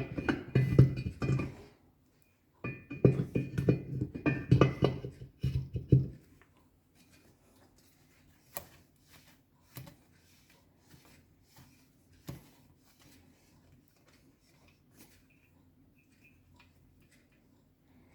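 Background music for about six seconds, then faint, sparse metallic clicks and knocks, a few seconds apart, as a BMW R60/5 crankshaft is eased into the engine housing.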